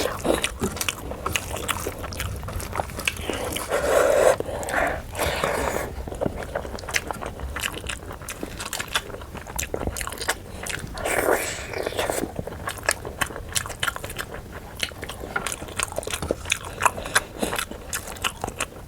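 Close-miked eating sounds: a person chewing a mouthful of fish curry and rice, with many small wet clicks and smacks, and two louder, longer mouth sounds about four seconds in and again near the middle.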